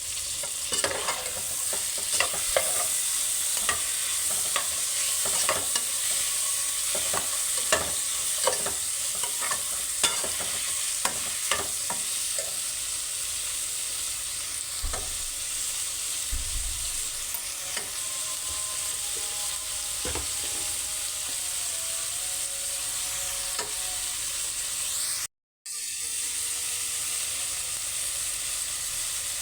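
Food sizzling as it fries in a pan, with a spoon stirring and clinking against the pan. The clinks come often in the first dozen seconds and then only now and then. The sound cuts out completely for a moment about 25 seconds in.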